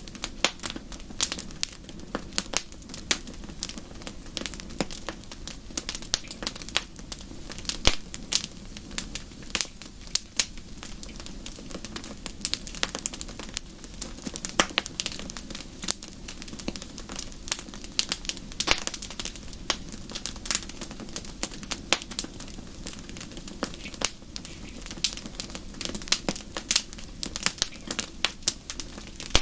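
Wood fire in a fireplace crackling: irregular sharp pops and snaps over a steady low rushing of the flames.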